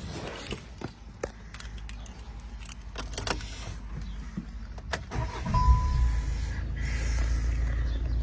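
A few clicks and rattles, then a short beep. About five and a half seconds in, the Volkswagen Tiguan's engine starts and settles into a steady idle.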